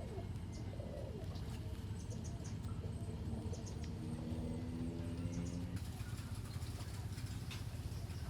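Small birds chirping over a steady low hum, with a longer held pitched sound in the middle of the stretch.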